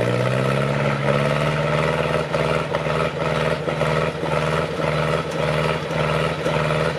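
Off-road truck engine revving up and held at high revs, with a regular pulse about three times a second.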